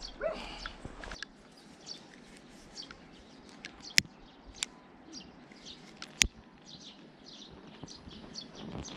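Small birds chirping on and off, with two sharp clicks about two seconds apart near the middle.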